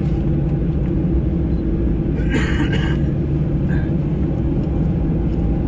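Steady low rumble inside the cabin of a Boeing 737-800 on the ground, its CFM56 jet engines running at idle. A brief, sharper noise cuts in about two seconds in.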